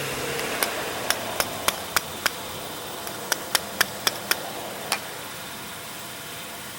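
About a dozen light, sharp taps on a small plastic lawn-mower carburetor, in two quick runs of five or six followed by a single tap, over a steady background hum.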